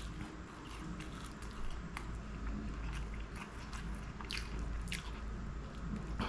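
Close-miked chewing of a mouthful of food, with irregular sharp mouth clicks and smacks.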